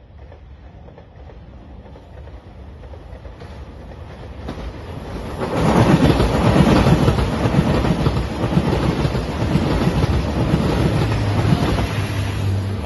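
JR Shikoku 2700 series diesel express train coming closer and passing at speed. The sound grows steadily, turns loud about halfway through as the cars reach the spot, and carries on as a dense clatter of wheels on rail joints with engine noise, ending with a steady low hum.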